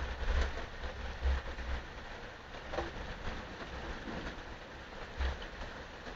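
Steady rain falling, an even hiss with faint scattered drop ticks, with low rumbles near the start and again about five seconds in.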